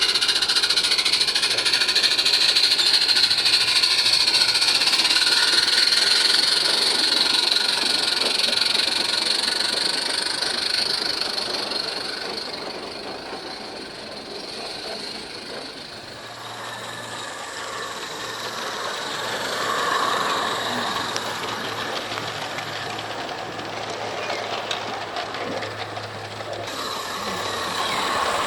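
A 16mm-scale live-steam garden railway locomotive running, with a steady hiss of steam. It fades away towards the middle and grows louder again about twenty seconds in and near the end.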